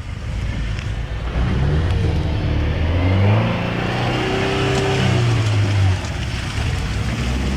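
A 4x4's engine revving hard as it tries to drive through deep mud: the pitch climbs for about two seconds, holds high under load, then drops away about six seconds in.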